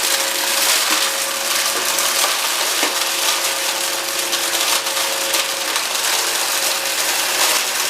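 Cheap upright vacuum cleaner running with its motor whining steadily while it sucks up coarse debris, a continuous crackle and rattle of grit, litter and small hard bits being pulled through the nozzle.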